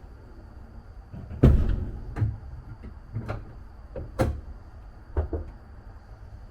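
Five loud clunks about a second apart, the first the loudest, over a steady low hum.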